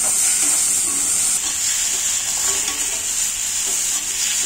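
Chopped tomatoes and onions frying in oil in an iron kadai, with a steady, high-pitched sizzle while a spatula stirs and scrapes against the pan. The tomatoes are being sautéed until they soften.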